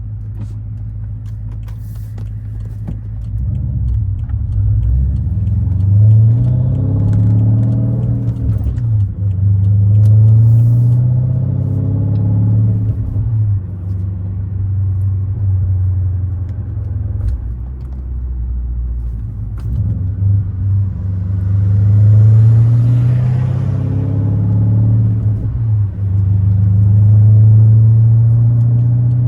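Twin-turbo V8 of a 2013 BMW 550i with catless downpipes, H-pipe and muffler delete, running while driving. Its low exhaust drone rises and falls in pitch several times as the car accelerates and the six-speed manual is shifted, getting louder from about four seconds in.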